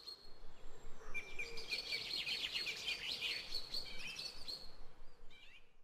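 Birds chirping and singing, several calls overlapping into a busy run of quick chirps in the middle before thinning out.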